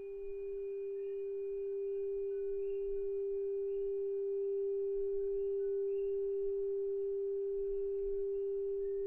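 396 Hz solfeggio tuning fork ringing as a single steady, pure tone.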